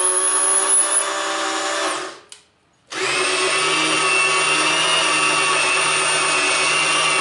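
Cordless drill driving a milling machine's knee elevating screw, running steadily for about two seconds, stopping briefly, then running again for about four and a half seconds as the axis is run up and then down.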